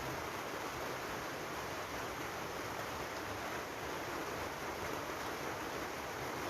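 Steady rainfall: an even, unbroken hiss with no single drops, thunder or other events standing out.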